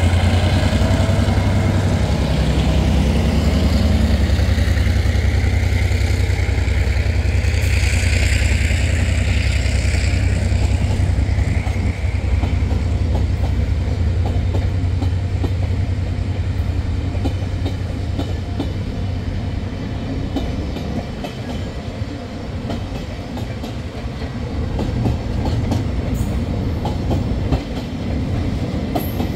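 A diesel-electric locomotive passes with a loud, steady low engine drone that eases off after about ten seconds. The freight cars behind it follow, with wheels clicking rapidly and continuously over the rails.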